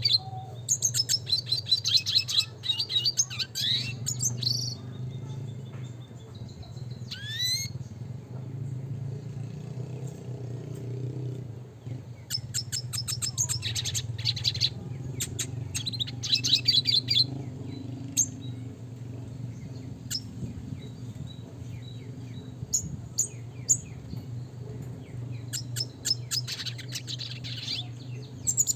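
Red siskin singing in bouts of rapid twittering trills and fast rattling note series, with short quieter gaps between phrases and a steady low hum underneath.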